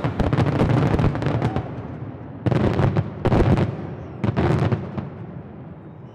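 Fireworks going off: a quick run of crackling bangs, then three loud separate booms a couple of seconds in, each dying away.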